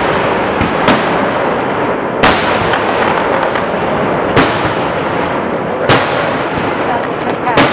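Fireworks display: five sharp bangs of shells bursting, roughly every one and a half to two seconds, over a continuous dense din of further fireworks.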